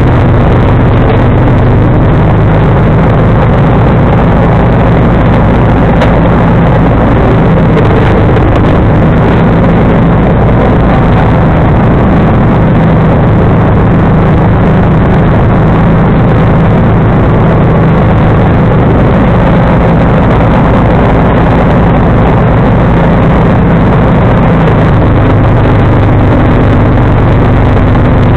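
John Deere 445 garden tractor's V-twin engine running steadily under load while driving its 47-inch snowblower, the note shifting slightly a few seconds before the end.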